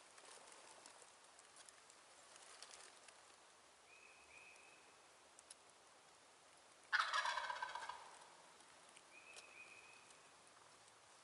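A wild turkey gobbler gobbles once, loud and rattling, about seven seconds in, lasting about a second.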